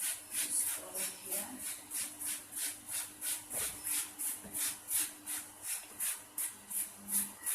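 Rapid back-and-forth scrubbing of an oven surface, an even run of short scratchy strokes about four a second.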